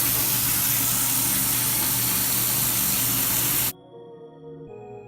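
Bathtub tap running full, water gushing into the tub with a steady rush. It cuts off abruptly a little over three and a half seconds in, and soft ambient synth music takes over.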